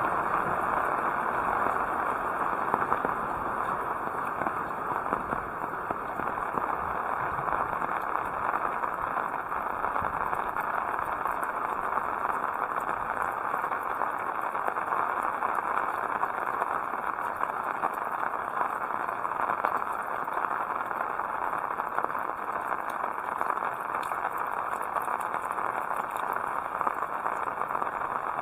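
Heavy rain falling steadily: a dense, even hiss of drops with a fine crackling patter.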